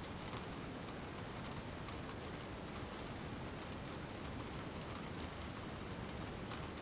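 Steady rain falling: an even hiss, with single drops ticking here and there.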